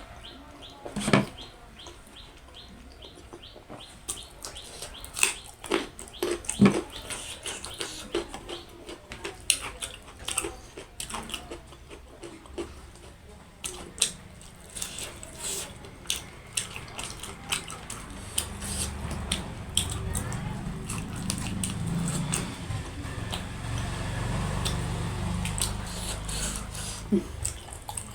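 Close-up eating sounds: chewing and lip smacking, with many short wet clicks scattered irregularly. A low rumble swells in about two-thirds of the way through and carries on to the end.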